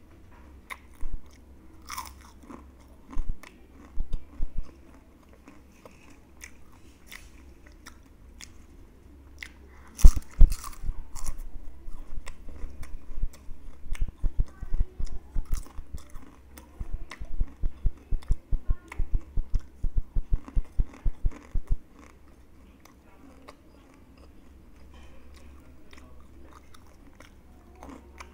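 Crunching of crispy fried chips being bitten and chewed: a few scattered crunches, a loud bite about ten seconds in, then fast, even chewing of about four crunches a second for some eight seconds before it quiets.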